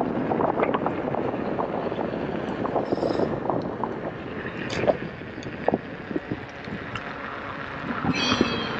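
Wind rushing over a motorcycle rider's helmet and microphone while riding, a dense steady roar with frequent small ticks and taps. It eases a little past the middle, and a brief high whine sounds near the end.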